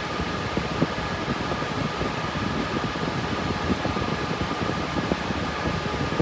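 Cooling fans of a GPU mining rig with RTX 3060 Ti graphics cards running steadily under mining load: an even whooshing noise with two steady whining tones, and a few faint ticks.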